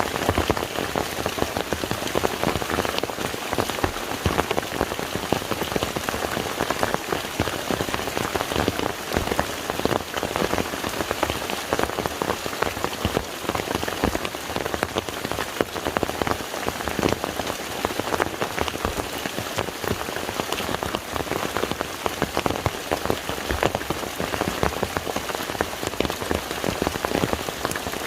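Steady rain falling on a lake's surface: an even hiss of countless small drop hits, unchanging throughout.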